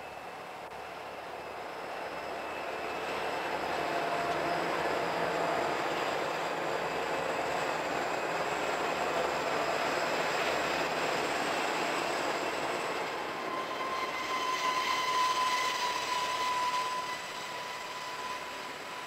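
Rio Grande diesel freight locomotives approach and pass close by, engines running, followed by the rolling rumble of a string of hopper cars. From about two-thirds of the way through, a steady high wheel squeal from the cars on the curve joins in.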